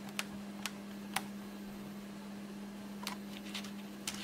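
Light plastic clicks and taps of a laptop's case parts being handled during disassembly, about half a dozen short clicks spaced irregularly, over a steady low hum.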